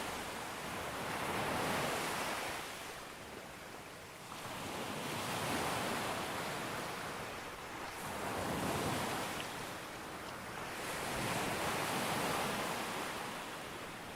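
Ocean waves breaking on a beach, the surf swelling and ebbing four times, about every three to four seconds.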